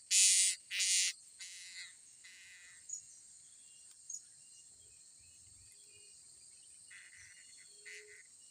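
Blue-crowned hanging parrots giving three or four shrill, harsh calls in the first second or so, with a couple more near the end, over a steady high insect drone.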